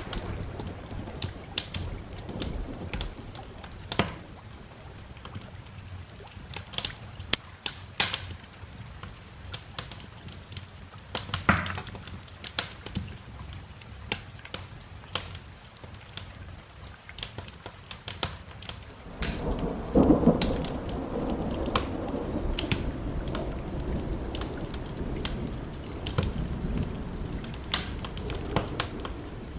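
Wood fire crackling with frequent sharp pops over steady rain. A low rumble of thunder swells about two-thirds of the way through and slowly dies away.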